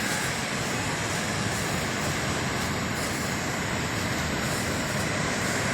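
Steady, unbroken rush of sea surf mixed with wind noise.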